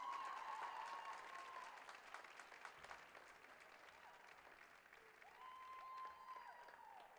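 Faint crowd applause, with a held vocal call near the start and another near the end.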